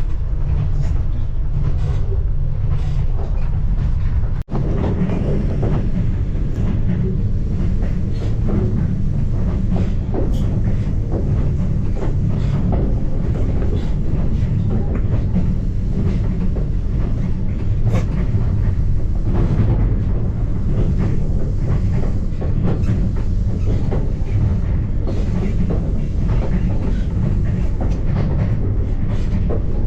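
Kenya Standard Gauge Railway passenger train running at speed, heard from inside the coach: a loud, steady rumble of wheels on rails with light irregular clatter. There is a momentary drop-out about four and a half seconds in.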